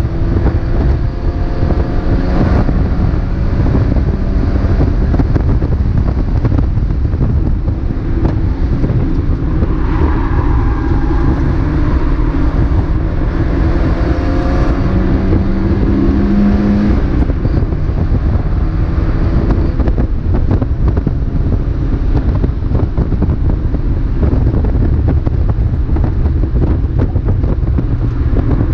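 Mazda MX-5 race car's four-cylinder engine running with heavy wind and road rumble, its note rising and falling a few times.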